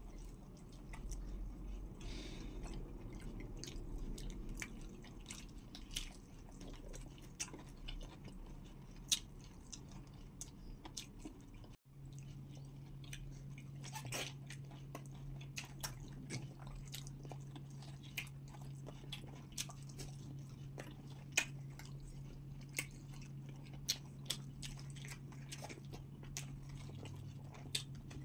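People chewing and biting soft pounded yam with okra soup, eaten by hand: wet mouth sounds with many scattered clicks and smacks. The sound drops out for a moment about twelve seconds in, and after that a steady low hum runs underneath.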